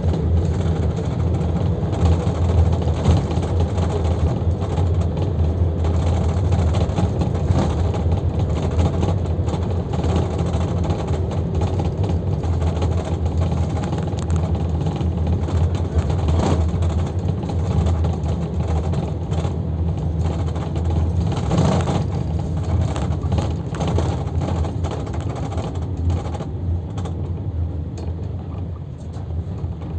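LUIDOR 2250DS bus in motion, its engine and road noise running steadily, with a couple of brief knocks or rattles about halfway through; it gets quieter near the end as the bus slows.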